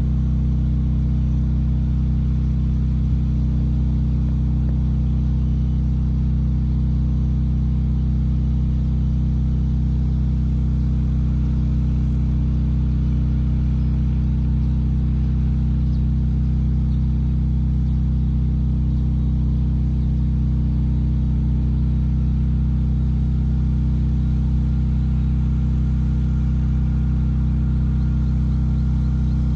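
A steady low engine hum that holds one even pitch and level throughout.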